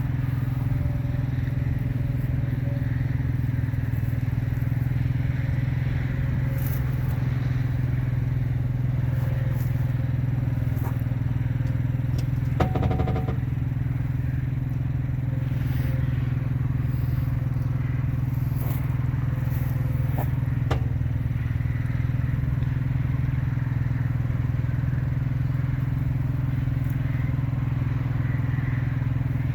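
RV automatic leveling system at work: a steady low motor drone with scattered sharp pops from the leveling jacks as they take the coach's weight, the loudest, with a brief ring, about thirteen seconds in.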